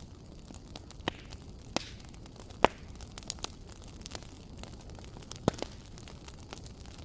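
Wood fire crackling in a fireplace: irregular sharp pops over a steady low rumble and hiss, the loudest pop about two and a half seconds in and another sharp one about five and a half seconds in.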